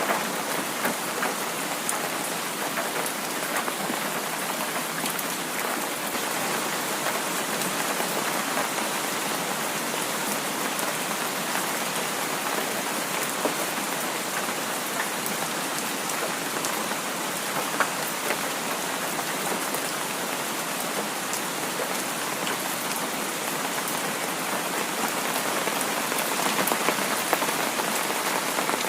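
Heavy rain falling steadily, a dense even hiss with scattered drops ticking on a surface.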